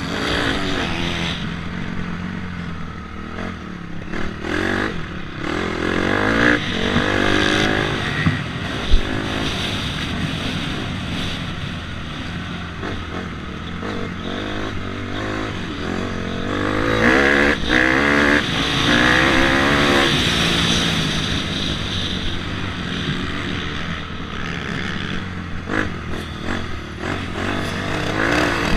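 Dirt bike engine revving up and down as it is ridden, its pitch climbing in repeated sweeps through the gears. A sharp knock comes about nine seconds in.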